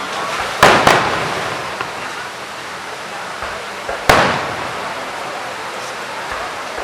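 Fireworks display: shells bursting, two bangs in quick succession a little after half a second in and another about four seconds in, each with a fading echo, over steady crackling and hiss.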